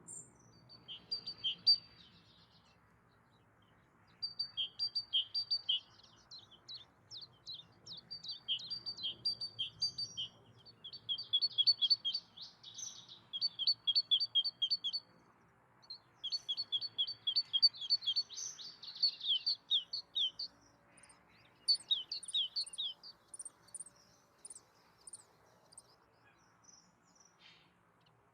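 Songbirds singing: repeated phrases of fast, high chirping notes with short pauses between them, and thinner, higher notes near the end.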